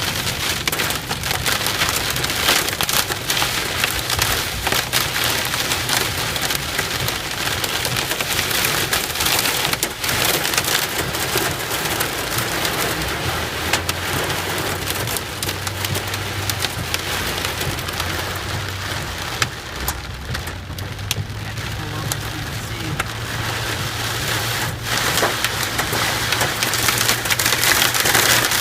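Heavy rain during a thunderstorm: a dense, steady patter and crackle of drops striking a surface.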